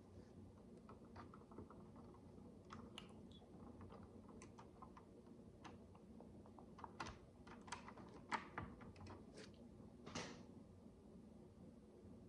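Faint, irregular clicks and taps of tiny plastic micro bricks being handled and pressed together, busier in the second half, with a short scrape about ten seconds in.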